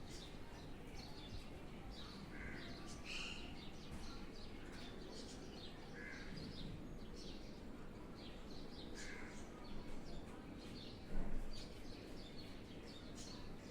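Birds calling and chirping repeatedly over a steady background noise, with one brief louder sound about eleven seconds in.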